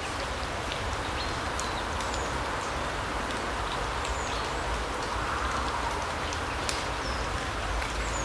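Forest ambience: a steady rushing hiss with a low rumble beneath it, and short, high bird chirps scattered through, a few to the second.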